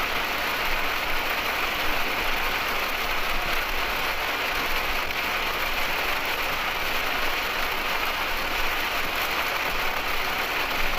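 Heavy rain pelting a motorhome's windshield and body, heard from inside the cab as a steady hiss over the tyre and road noise of highway driving.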